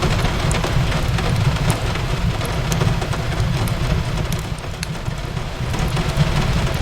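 Steady rain on a window mixed with a crackling wood fire: a continuous hiss of rain over a deep, even rumble, with scattered sharp pops and crackles from the fire.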